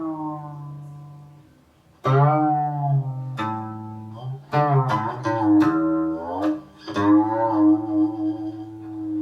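Guqin (seven-string Chinese zither) played solo: plucked notes ring and decay, several bending in pitch as the stopping finger slides along the string. The sound nearly dies away after about a second and a half, then a loud plucked note at about two seconds starts a run of notes with further slides.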